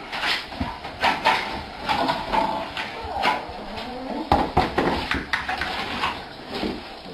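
A dog whining and yelping in short pitched calls, mixed with repeated knocks and clatter.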